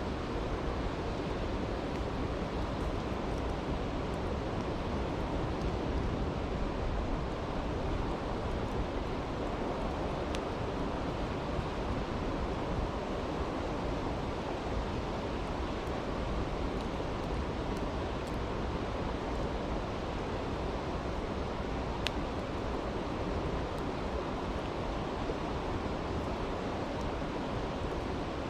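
Steady rushing of a stream, with a few faint crackles from a campfire.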